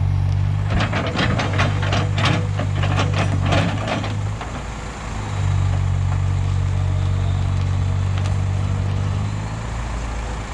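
Heavy diesel engine running at a steady speed. It fades for about a second some four seconds in, then comes back. Over the first few seconds a quick run of sharp clanks and knocks sounds over it.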